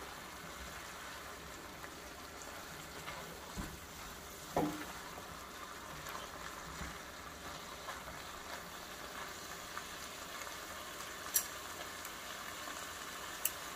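Shrimp and string bean stir-fry sizzling steadily in a pan, with a few sharp clinks of a utensil against the pan.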